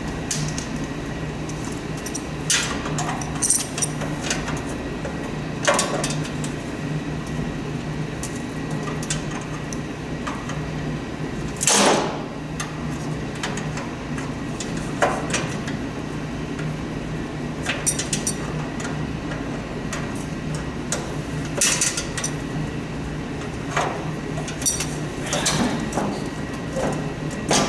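Hand tools working on the metal parts of an old snowblower: a dozen or so irregular clicks, taps and knocks, the loudest about twelve seconds in, from trying to pry off a stubborn retaining clip. A steady low hum runs underneath.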